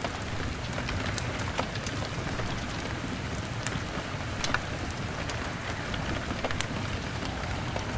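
Steady rain falling on a window pane, with a wood fire crackling, its sharp pops scattered irregularly through the rain.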